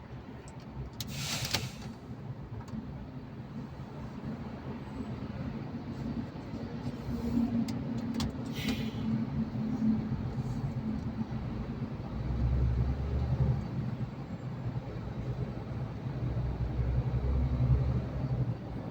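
Truck driving through a tunnel: a steady low engine and road rumble that swells louder twice in the second half. Two short hisses come about a second and a half in and again about eight and a half seconds in.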